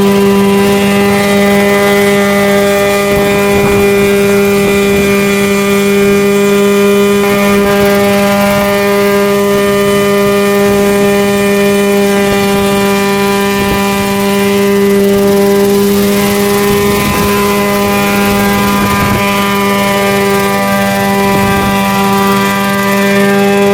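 Homemade coaxial helicopter running at a steady speed, giving a loud, even, pitched drone.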